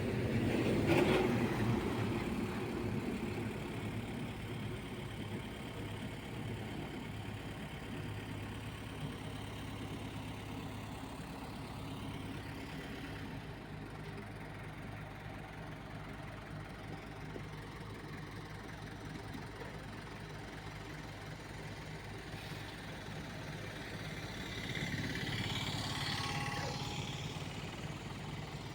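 Heavy vehicle engine running steadily at idle. It swells louder about a second in and again near the end.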